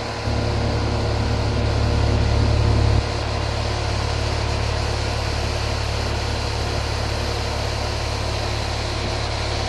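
Outdoor air-conditioning condenser unit running: a steady mechanical hum with a deep drone and a few steady tones above it, louder for the first few seconds.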